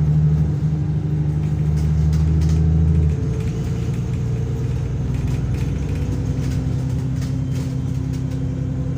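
VDL DB300 double-decker bus engine running hard, its loud deep note dropping suddenly about three seconds in, then running on steadily at a lower level with a faint whine and light rattles.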